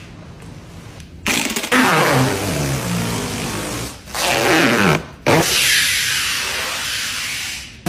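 Sports car engine revving hard, starting a little over a second in, its pitch falling away after each rev; the sound breaks off abruptly twice and then cuts out sharply near the end.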